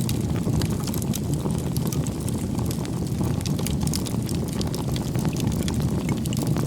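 Firewood burning in a bonfire: a steady low rumble of flames with frequent small crackles and pops from the burning wood.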